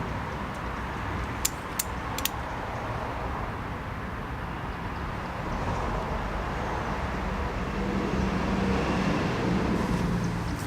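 Three quick sharp clicks of a wrench on the engine-guard bracket bolt during slow tightening, over a steady background rumble.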